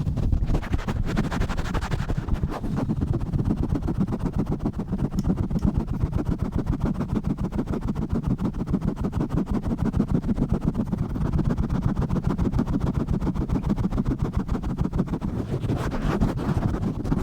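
Fast, rough rubbing and pumping right on a microphone: a dense, unbroken run of low, muffled whooshing strokes, many a second. It turns brighter and scratchier near the end.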